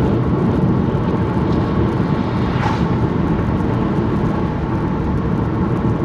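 Steady road and engine noise inside a moving car's cabin, a low rumble that holds level throughout.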